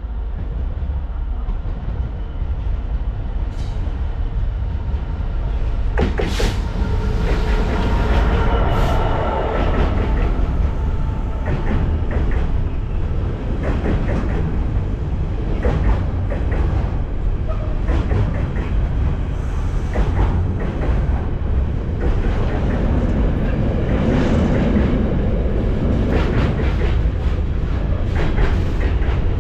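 A Class 66 diesel freight locomotive, with its two-stroke V12 engine, passes hauling a container train. Its engine and a sharp clatter come through about six seconds in. After that comes a long run of container wagon wheels clicking and rumbling over the rail joints.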